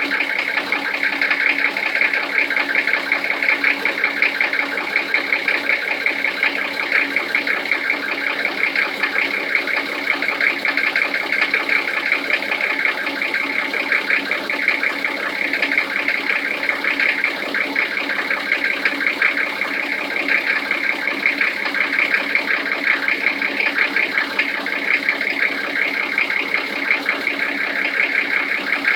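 Toyota 1HZ 4.2-litre straight-six diesel idling cold with a steady, rapid knock, the cold-engine knocking the owner is recording.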